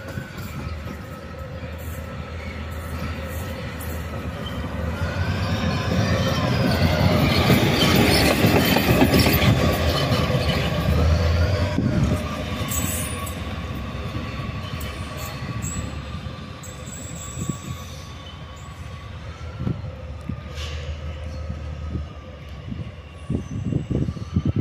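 A train moving through the station, its steel wheels squealing on the rails in wavering high tones over a low rolling rumble. The squeal is loudest about halfway through and then fades, with a few knocks near the end.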